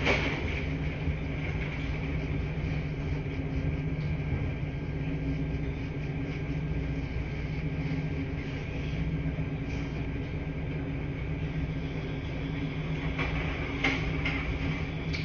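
Washing machines running in a laundry room, a steady mechanical hum with a few light knocks near the end.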